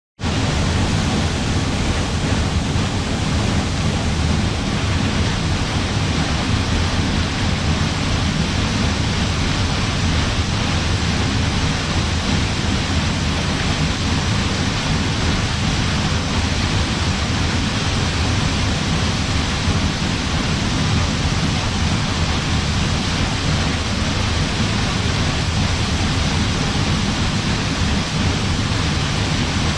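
Waterfall: water falling and rushing steadily without a break, heaviest in the low end.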